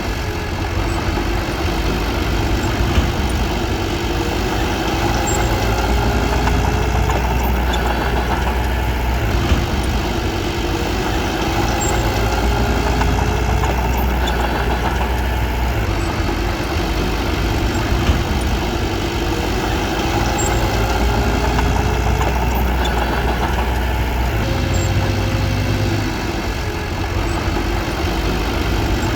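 Bulldozer diesel engine running steadily, its low note shifting every several seconds as the load changes, with a few light clanks.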